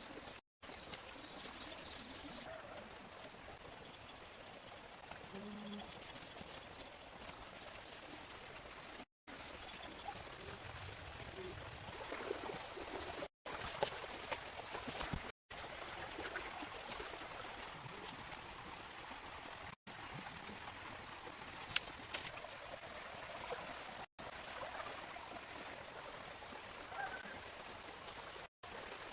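Steady chorus of insects holding one high, continuous note, broken by several brief silent gaps.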